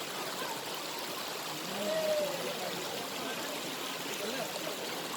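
Steady rush of running water from the waterfall's stream, with faint voices of people nearby, briefly a little louder about two seconds in.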